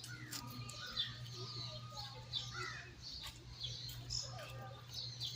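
Many short, high chirps and squeaky calls overlapping throughout, from small animals, over a steady low hum.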